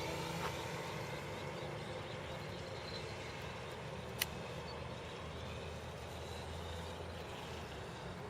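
Quarter-scale Hangar 9 Piper PA-18 Super Cub model airplane in flight, its Benedini sound module playing a simulated piston-engine drone over the propeller noise. The drone is steady and low, and slowly fades. There is a single sharp click about four seconds in.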